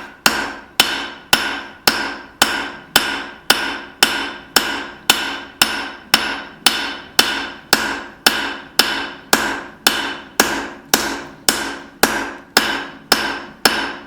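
Hand hammer striking hot leaf-spring steel on an anvil in a steady rhythm of about two blows a second, each blow leaving a short metallic ring: forging the bevels into a knife blade.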